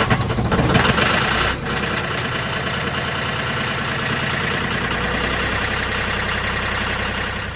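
Mahindra 1635 tractor's diesel engine running just after a cold start at about 1 °F, following a glow-plug preheat. It runs louder for the first second and a half, then settles to a steady idle.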